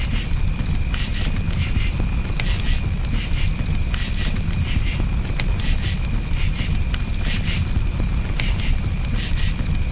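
Campfire crackling with scattered sharp pops over a steady low rumble, while crickets chirp without a break.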